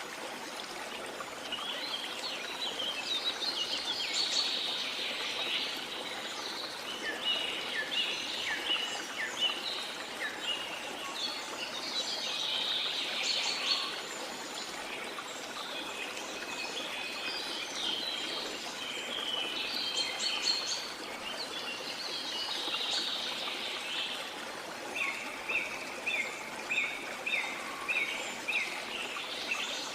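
Rain forest birds calling and chirping over the steady rush of a flowing river. Near the end one bird repeats a short note about twice a second.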